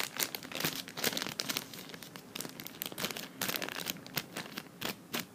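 Crinkly wrapper of a toy blind pack being handled and crumpled in the hands: a dense, irregular run of short crinkles and rustles.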